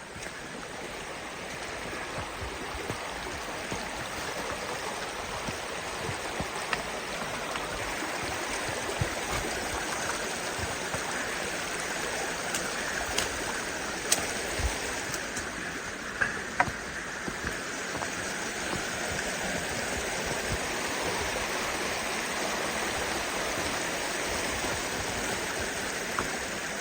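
Creek water rushing steadily over rocks, with a few short sharp clicks partway through.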